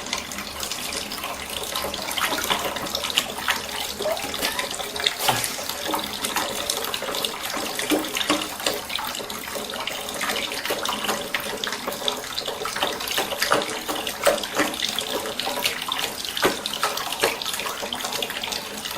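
Water running from a tap into a sink, with irregular splashing and small knocks as dishes are being washed.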